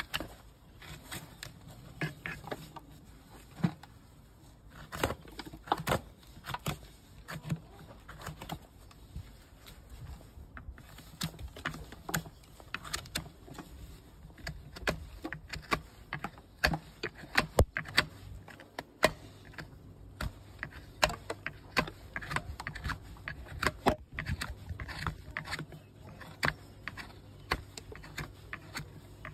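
Hoof-trimming tools working on a Shire horse's hoof: irregular sharp clicks, snips and scrapes as the horn is cut and pared. A faint steady low hum comes in about two-thirds of the way through.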